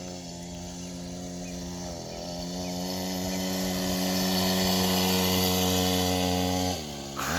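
Small motocross bike engine running at a steady pitch, growing louder over the first few seconds. Near the end the pitch drops briefly and climbs again, as the throttle is eased off and opened.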